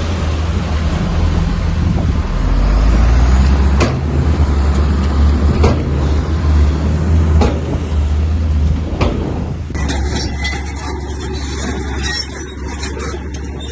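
Bulldozer's diesel engine running under load with a deep, steady drone, and four sharp clanks spaced about two seconds apart. About ten seconds in, the sound turns abruptly thinner and choppier.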